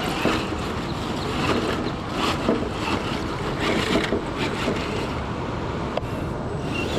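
Steady rushing of river water, with scattered brief clicks and scrapes over it.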